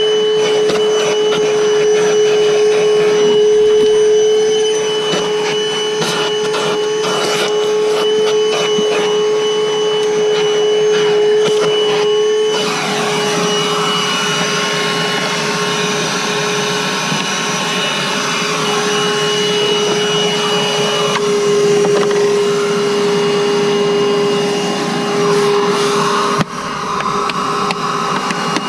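Milwaukee M18 cordless wet/dry vacuum running steadily, its motor giving a constant whine over the rush of suction. Scattered clicks and rattles come through in the first dozen seconds, and the sound of the airflow changes about halfway through.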